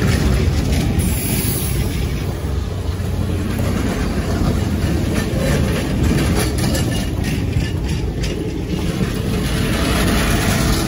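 Passenger railroad cars rolling past at close range: a steady low rumble of steel wheels on the rails, with a run of clicks and clanks several seconds in.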